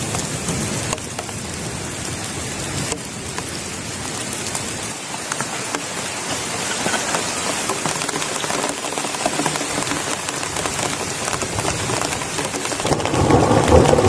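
Heavy rain falling: a steady hiss, thick with the patter of drops. About thirteen seconds in, a louder, deeper noise joins it.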